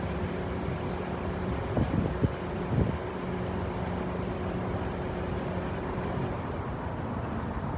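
Steady jet engine noise from a Boeing 747-8 airliner flying overhead, a broad roar with a few steady tones in it. A few short low bumps about two to three seconds in.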